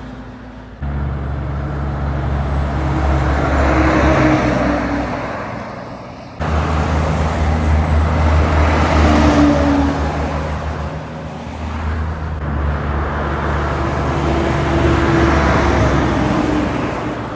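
Heavy trucks driving past, a low engine drone with tyre and road noise swelling and fading as each one goes by. The sound jumps abruptly about a second in and again about six seconds in, where separate clips are spliced together.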